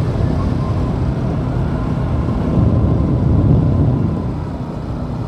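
Riding noise from a Bajaj Pulsar NS200 motorcycle on the move: a dense low rumble of wind on the microphone and engine, with a faint steady whine, swelling louder about two and a half seconds in and easing off again.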